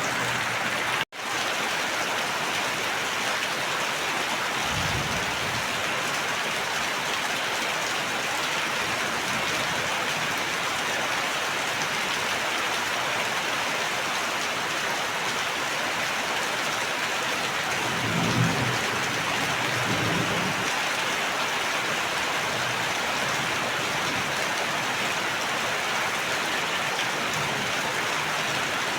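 Steady rain falling, an even hiss throughout. It cuts out for an instant about a second in, and short low rumbles come through around five seconds in and again about two-thirds of the way through.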